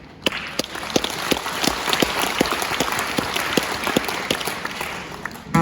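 Audience applauding, with sharp individual claps standing out; the applause starts suddenly and dies away just before the guitars begin.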